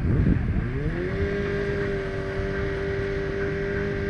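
Drag motorbike engine revving up in the first second, then held at steady high revs.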